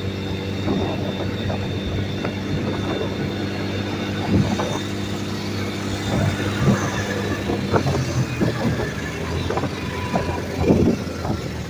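A small vehicle engine running at a steady speed without revving, with scattered knocks and rattles over it.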